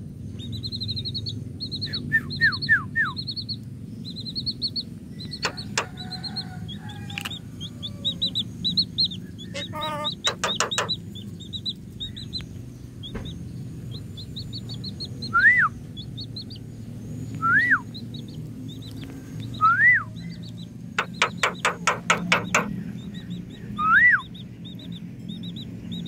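Birds calling, among them a Javan myna close by: fast runs of short high chirps throughout, two bursts of rapid clicking about ten and twenty-one seconds in, and four loud whistled calls that each rise and then fall.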